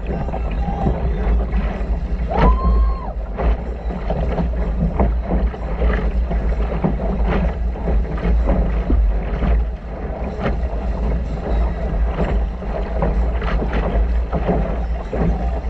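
Water splashing and slapping against a sailboat's hull as it moves, with heavy wind rumble on the microphone. A brief squeak is heard about two and a half seconds in.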